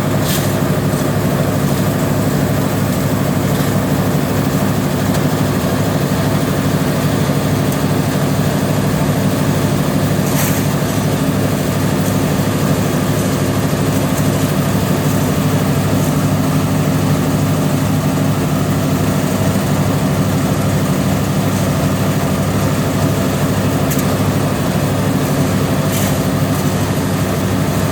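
Construction machine engine running steadily at constant speed, with a few brief sharp knocks: one at the start, one about ten seconds in and one near the end.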